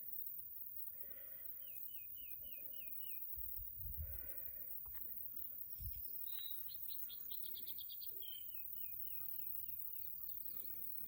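Wild birds singing outdoors: a series of about six quick repeated notes, a fast high trill near the middle, then the repeated-note series again. Two low thumps break in near the middle.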